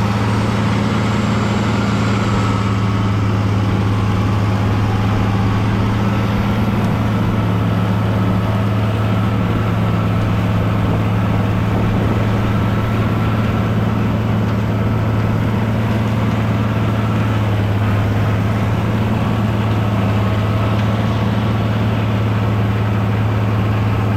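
International tractor engine running at a steady speed, a constant low hum with a faint, steady higher whine above it.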